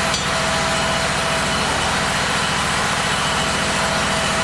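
SCAG mower's engine idling steadily, with an even low pulsing beat.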